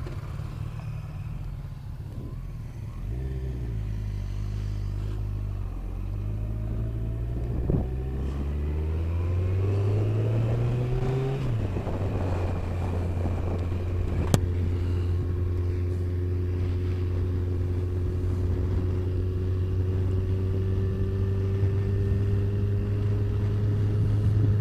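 Kawasaki ZZR1400's inline-four engine accelerating through the gears, its pitch rising and dropping at each upshift twice, then holding a steady cruise. A single sharp click comes a little past halfway.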